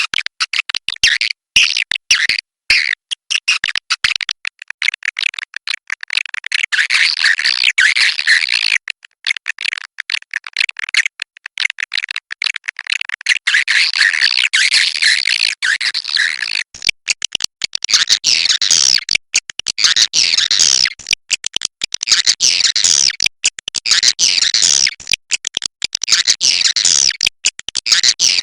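Swiftlets twittering in a dense, continuous chorus of rapid chirps, broken by many brief gaps and growing fuller and louder about halfway through. This is a swiftlet roosting-call lure track, the kind played in swiftlet houses to draw the birds in to roost.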